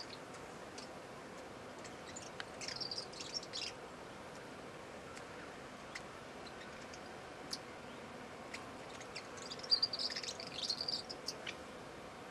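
A small bird calling: two short bursts of quick, high chattering notes, one early and a longer one late, with a few scattered single ticks between them over faint steady background hiss.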